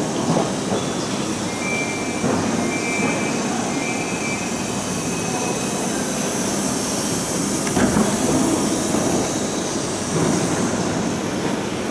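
Railway platform noise beside a standing passenger train under a large iron-and-glass train shed: a steady rumble and hiss from the train, with three short high-pitched tones in the first few seconds and a hiss that swells in the middle.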